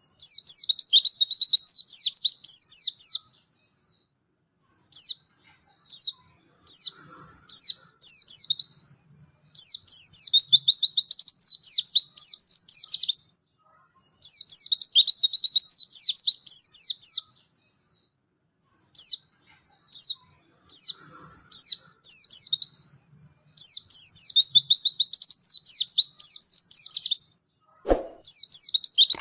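White-eye (pleci) singing vigorously: fast, high twittering phrases a few seconds long, broken by short pauses. One sharp click comes near the end.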